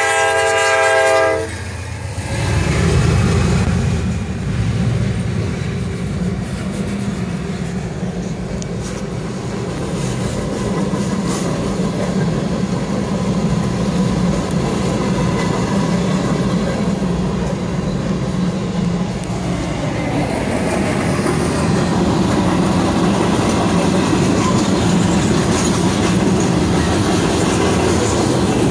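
CSX freight train passing: the locomotive's air horn sounds for about a second and a half at the start, then the diesel locomotives and a long line of freight cars roll by with a continuous rumble of wheels on the rails.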